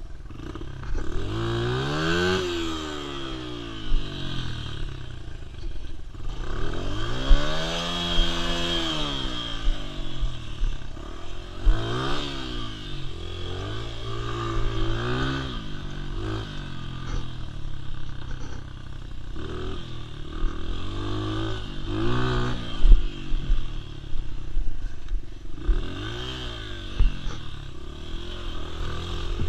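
Dirt bike engine revving up and dropping back again and again, about half a dozen times, with scattered clattering knocks.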